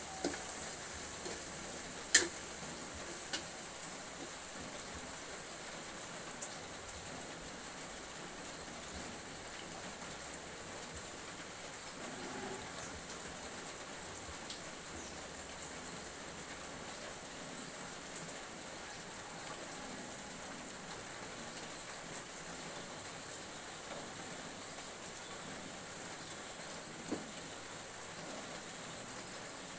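Food sizzling in a wok over a wood fire: a steady hiss, with one sharp click about two seconds in and a few fainter pops.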